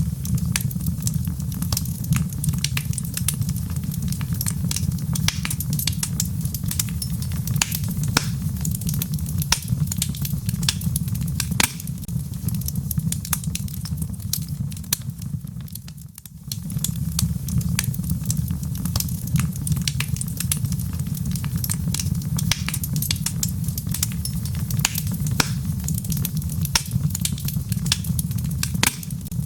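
Wood fire crackling, with dense sharp pops and snaps over a steady low rumble and a soft hiss of rain. The whole bed drops away briefly about halfway through and then comes straight back.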